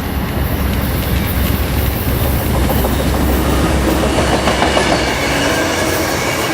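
Amtrak passenger train passing close by, led by two GE P42DC diesel locomotives. A deep diesel rumble fills the first few seconds, then the cars clatter past with thin squealing tones from the wheels on the curve.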